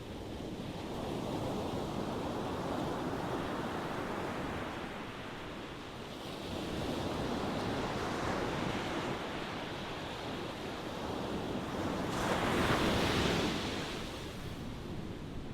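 Ocean waves rolling in and washing back, with the noise swelling and easing in slow surges. The loudest surge is a wave breaking with a brighter hiss about twelve seconds in.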